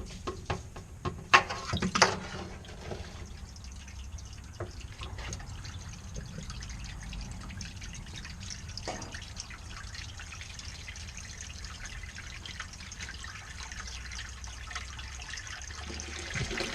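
A few sharp knocks and clatters in the first two seconds, then water running steadily into the boat's bilge to fill it before a bilge pump test.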